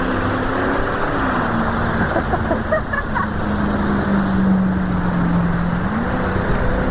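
A motor vehicle going through deep floodwater: a steady engine hum that sinks slowly in pitch and rises again near the end, under a constant wash of rushing, splashing water.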